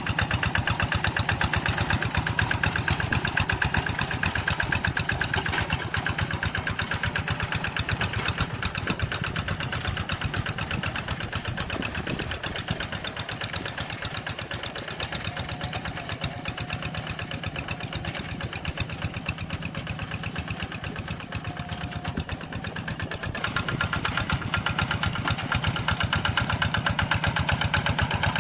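Tractor engine running steadily with a rapid, even firing beat; it eases off somewhat past the middle and grows louder again near the end.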